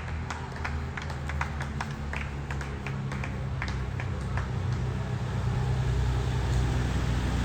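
A motor vehicle's engine hum approaching and growing steadily louder. Scattered sharp taps sound over the first few seconds.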